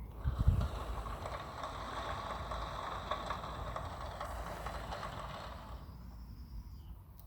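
Recorded rain played through the small speaker of a children's sound book: a soft, steady shushing hiss lasting about six seconds, after a low thump from the button being pressed.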